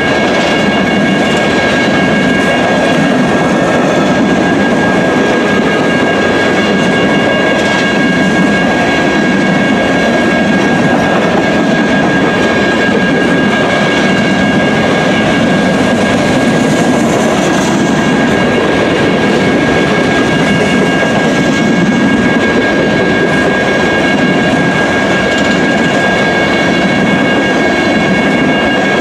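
Coal train hopper cars rolling steadily past a grade crossing: a continuous rumble and clatter of steel wheels on the rails. A steady high-pitched ringing tone lasts throughout.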